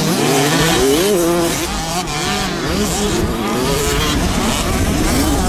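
Several motocross motorcycles' engines revving up and down over one another, their pitches rising and falling as the riders work the throttles.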